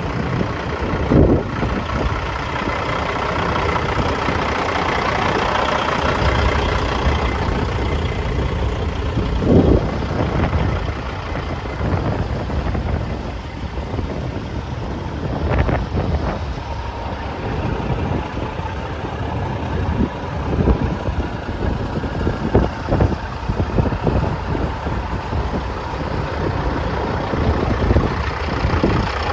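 Cat diesel engine of a 2004 Kenworth T600 truck idling steadily, with a few short knocks along the way.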